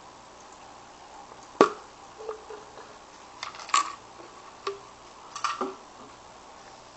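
A cat jumping for treats: a handful of short, sharp thumps and taps as it springs up and lands. The loudest comes about a second and a half in, with a cluster near the middle and another near the end.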